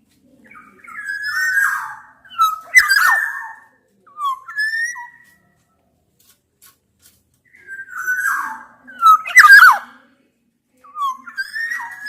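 Black-naped oriole (kepodang) singing: several bursts of fluty, sliding whistled phrases with short pauses between, mixed with a couple of harsher rasping notes.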